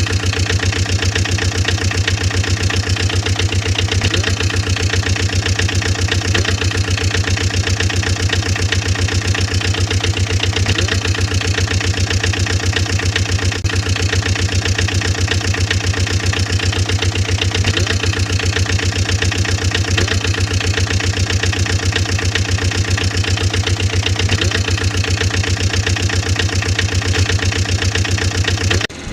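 An engine idling steadily with a rapid, even putter that holds the same speed throughout.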